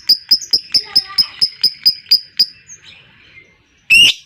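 Lovebird 'ngekek': a long run of rapid, sharp chattering notes, about six a second, that stops about two and a half seconds in, followed by one loud harsh call near the end.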